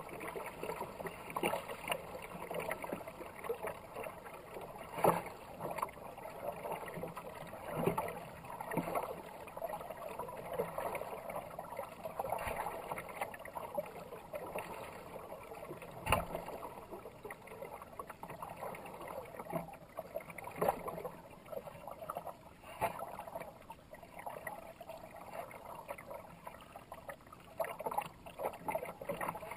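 Kayak paddle blades dipping into and pulling through fast river water, with irregular splashes every few seconds over a steady wash of moving water.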